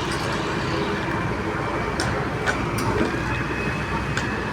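Excavator's diesel engine running steadily, with a few sharp metallic clicks and knocks from the machine at work.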